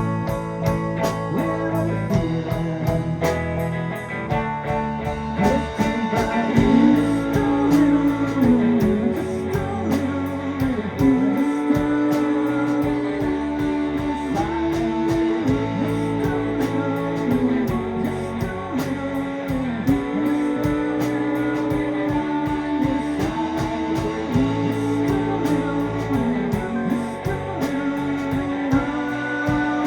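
Live rock band playing: a sustained, bending guitar melody over bass and keyboards, with drums keeping a steady hi-hat beat.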